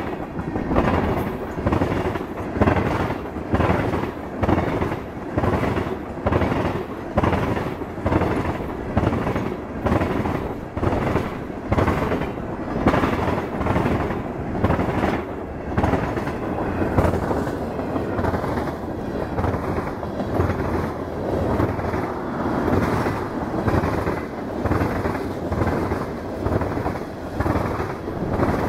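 Freight train's tank cars and covered hoppers rolling past close by, their steel wheels clattering over rail joints in a steady, evenly repeating clickety-clack over a continuous rumble.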